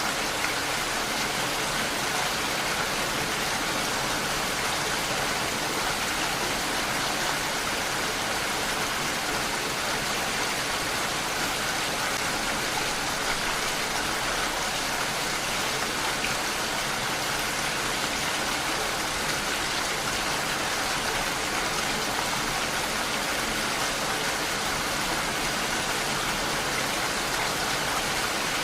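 Steady rain falling, a constant even hiss of many drops with no change.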